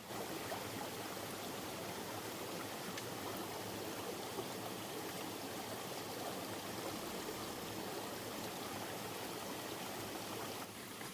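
Steady rush of running water, like a stream, that cuts off abruptly near the end.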